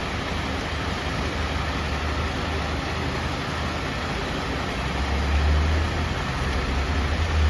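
Steady hiss of rain over the low rumble of a fire engine's engine running. The rumble swells about five seconds in and again near the end.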